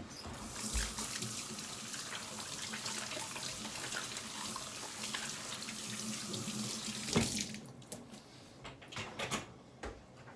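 Water running steadily from a tap for about seven seconds, then shut off, followed by a few small handling clicks and knocks.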